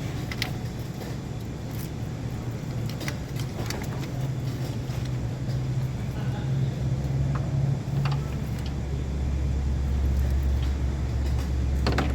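A vehicle engine running steadily, with a low hum that turns deeper and louder about eight seconds in. A few light clicks sound over it.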